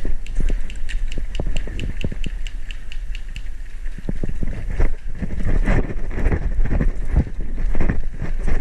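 Quick footsteps with rattling, rustling gear as a player moves across the field, with a regular ticking of about five a second for the first few seconds and wind rumbling on the microphone.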